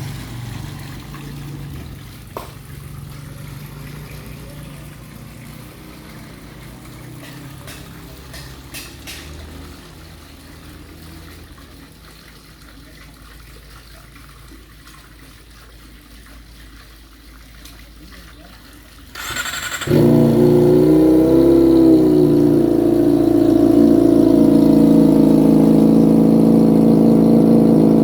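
Kawasaki ZX-25R inline-four engine started through an aftermarket undertail exhaust: a brief burst of cranking about 19 seconds in, then the engine catches, blips up and back down, and settles into a loud steady idle. Before it starts there is only a low steady hum.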